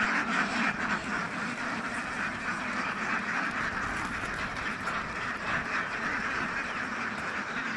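Large flock of domestic ducks quacking together: a dense, continuous chatter of many overlapping calls.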